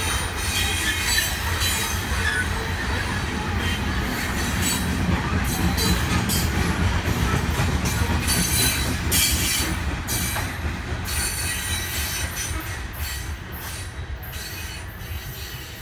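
Loaded coal hopper cars of a long freight train rolling past on steel wheels: a steady rumble with clattering over the rail and a thin, high wheel squeal. The sound fades over the last few seconds as the end of the train goes by.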